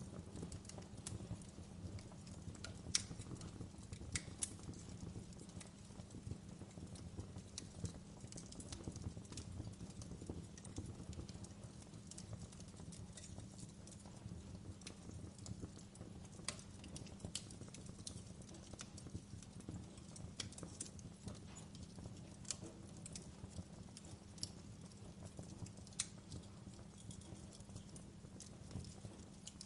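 Wood fire crackling: a steady low rumble with irregular sharp snaps and pops, a couple of louder pops standing out.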